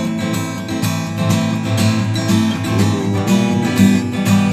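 Acoustic guitar strummed rhythmically in the "gallop" strumming pattern across all strings, playing chords with no singing.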